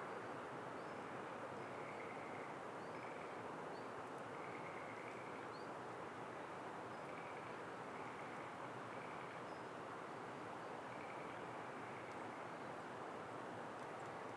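Steady outdoor background noise with faint, short, high chirps from small birds scattered through it, and a faint tone that pulses about once a second.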